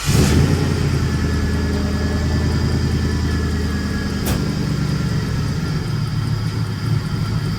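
Car engine catching just after fuel reaches it following an overhaul, then running at a steady idle. A single sharp click sounds about halfway through.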